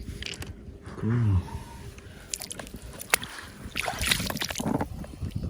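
Water sloshing with small stones clicking, and a short voiced exclamation about a second in.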